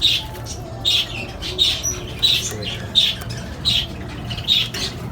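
Parrots squawking in an aviary: short, harsh calls repeated about every two-thirds of a second, over a low steady hum.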